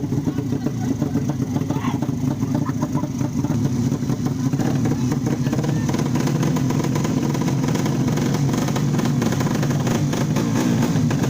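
Drag-race motorcycle with a 155cc engine running steadily at an even pitch, its exhaust pulses coming in a fast, rough stream.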